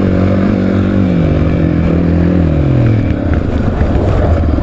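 Honda 650R enduro's single-cylinder four-stroke engine running under the rider. The revs drop in two steps, about a second in and again around two and a half seconds in, and the engine then runs lower and rougher.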